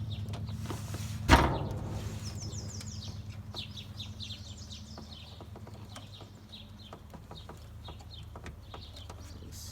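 A single loud knock about a second in, then small birds chirping in quick repeated runs over a steady low hum.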